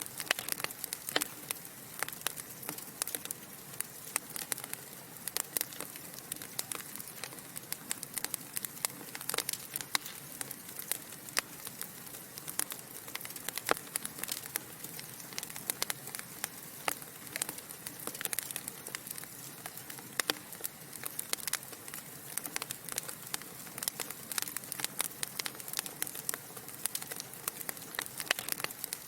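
Wood fire burning in a fireplace: a steady soft hiss with many sharp, irregular crackles and pops from the logs.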